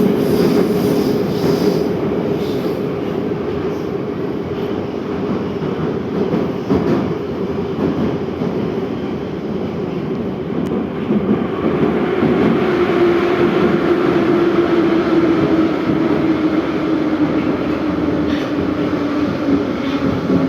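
Moscow Metro 81-717/714 train running, with continuous rumble and a steady whine from the running gear. In the second half the whine falls slowly in pitch as the train slows.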